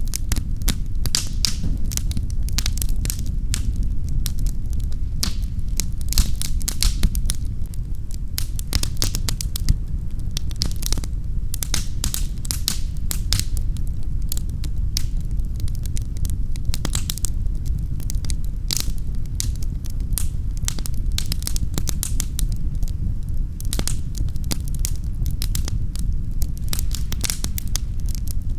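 Wood fire crackling in a fireplace: steady pops and snaps over a low rumble of the burning fire.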